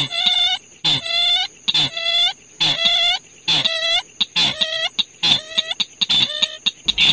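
A bird's call, recorded for use as a trapping lure, repeated about once a second: each call a short nasal note that hooks upward in pitch, about eight in a row. A steady high thin tone runs behind the calls.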